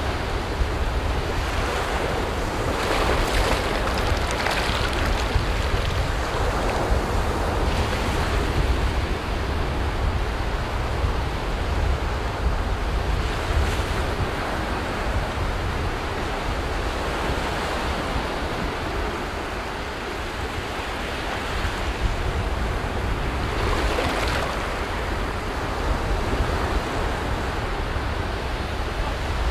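Sea waves breaking and washing up a beach in a steady rush of surf, with wind rumbling on the microphone. The surf swells louder a few seconds in and again later on.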